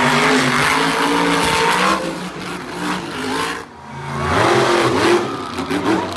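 Monster truck engine revving hard, its pitch climbing and falling repeatedly. It eases off briefly a little after halfway, then revs up again.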